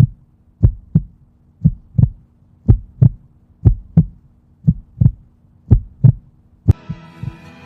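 Heartbeat sound effect: paired low thumps, lub-dub, about once a second over a faint steady hum. Music comes in near the end.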